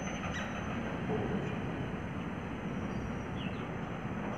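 Steady low rumble of a goods train's covered wagons rolling along the track, with a few faint bird chirps.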